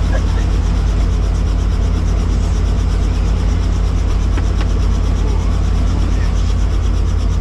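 Helicopter turbine and rotor running steadily, a loud constant drone with a deep low rumble.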